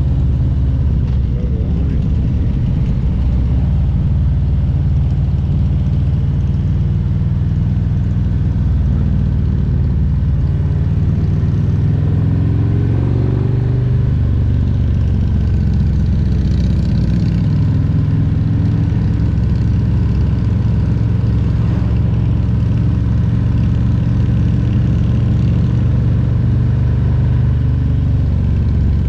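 Harley-Davidson Road Glide Special's Milwaukee-Eight 114 V-twin engine running steadily on the road. Its pitch rises briefly about halfway through, then settles back to a steady run.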